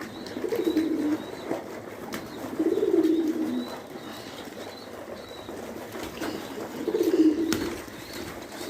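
Domestic pigeons cooing, three low wavering coos a few seconds apart, with a couple of sharp clicks in between.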